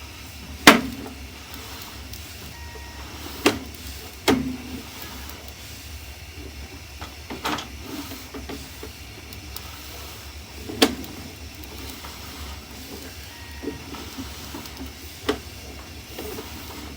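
Sewer inspection camera rig being pushed down a main sewer line: sharp knocks and clicks several seconds apart over a steady low hum. The loudest knock comes about a second in and another about eleven seconds in.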